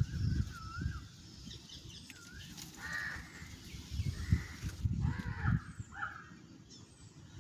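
Birds calling outdoors, with a cluster of short harsh calls a few seconds in, over a low rumbling noise.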